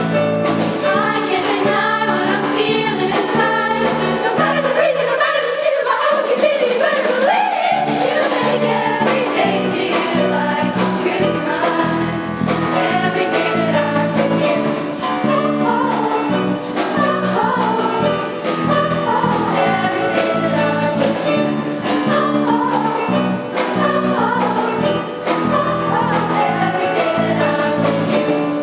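Music: a group of singers performing a song over a band accompaniment with a steady drum beat, ending right at the close.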